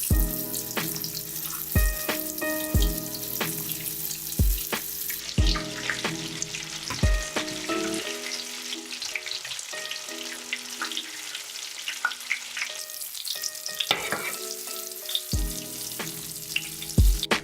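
Breaded Camembert frying in hot oil: a steady crackling sizzle. A lo-fi hip-hop beat with drum hits plays under it.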